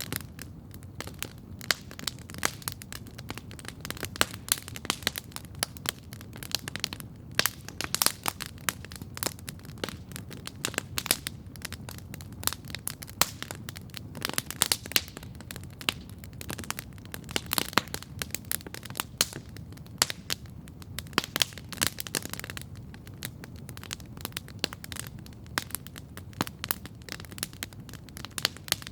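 Wood campfire crackling steadily, with frequent sharp pops and snaps over a low steady rumble of the flames.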